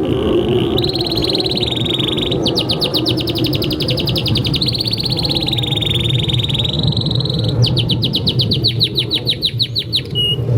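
Domestic canary singing a long unbroken song, alternating held whistled notes with fast rapid-fire trills, over a steady low background rumble.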